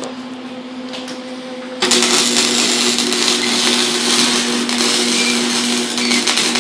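Welding arc striking about two seconds in and running steadily with a crackling hiss over a steady hum, as pinholes in a turbo flange weld are filled.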